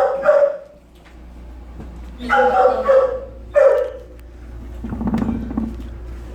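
Dogs barking in shelter kennels: a few drawn-out barks near the start, twice more about halfway through, and a lower, rougher bark or growl near the end.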